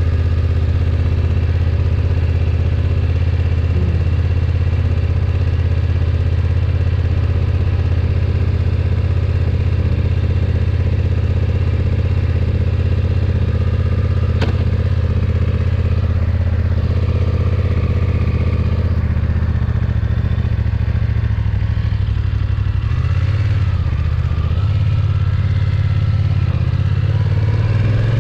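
BMW F900XR's parallel-twin engine idling steadily, its note turning less even after about twenty seconds. One sharp click about halfway through.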